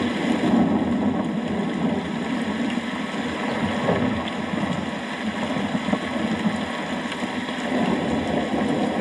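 Steady rain with a low, continuous rumble of distant thunder, no sharp crack.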